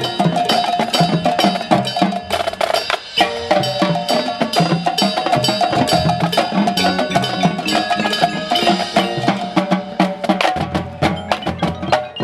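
High school marching band playing a percussion-heavy passage, with fast, dense drum and mallet-percussion strikes over held notes. It dips briefly about three seconds in.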